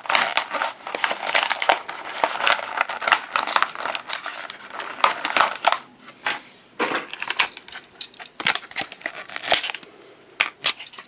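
Plastic and cardboard blister packaging crackling and crinkling in bursts of irregular clicks as a diecast model car is worked out of it, easing off twice.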